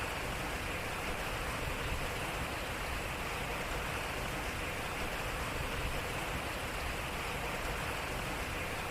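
Water flowing at a turning waterwheel, a steady, even rushing.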